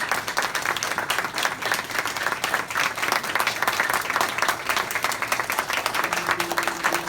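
Concert audience applauding, a dense, steady patter of many hands clapping.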